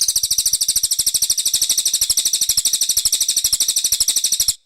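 Brown cililin songbird singing one fast, high, even trill of about sixteen notes a second, which stops abruptly near the end.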